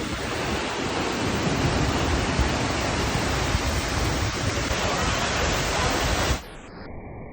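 Jeongbang Waterfall on Jeju crashing down, a loud steady rush of falling water. A little past six seconds in it cuts off suddenly, leaving a quieter, duller rush.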